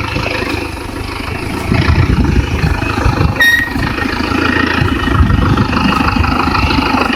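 A vehicle engine running, rumbling unevenly, with a short high beep about three and a half seconds in.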